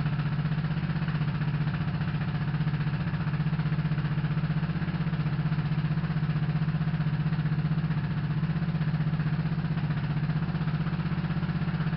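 Yamaha SRX600's air-cooled single-cylinder four-stroke engine idling steadily with an even, rapid pulse.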